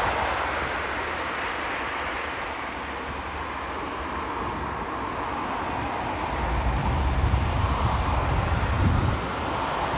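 Aircraft engine noise: a steady jet-like rush, with a deeper, louder rumble for a few seconds near the end.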